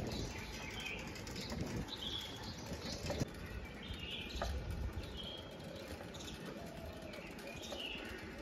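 Birds in the trees giving short, high chirps every second or so, over a steady low background rumble.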